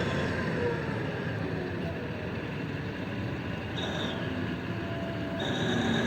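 Heavy mining machinery running steadily: the diesel engines and drives of a big loading shovel and haul dump truck at work, with a high whine that comes in briefly about four seconds in and again near the end.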